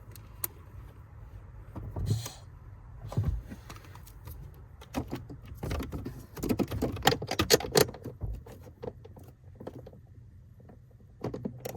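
Hand tools working a bolt: a socket ratchet clicking and metal tools clinking, in scattered bursts with a busy run of clicks in the middle.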